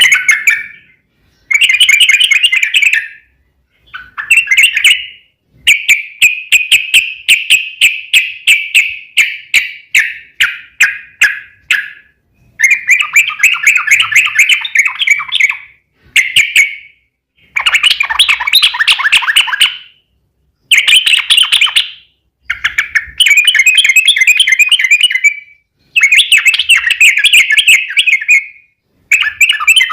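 Yellow-vented bulbul (trucuk) song in long, fast rolling runs: phrases of rapidly repeated chattering notes, each a second or more long, coming one after another with short pauses between.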